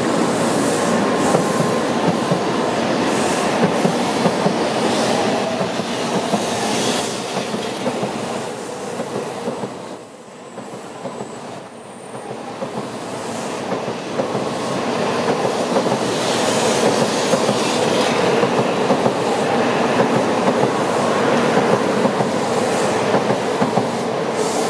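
N700A Shinkansen bullet train running close past, a steady rumble of wheels on rail with repeated clacks. The noise dips for a couple of seconds about ten seconds in, then swells again.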